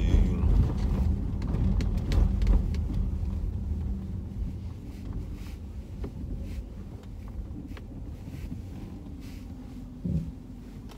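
Dodge Charger R/T's 5.7-litre Hemi V8 and road noise heard from inside the cabin while driving, a low steady rumble that is louder for the first few seconds and then settles to a quieter cruise. A short thump comes near the end.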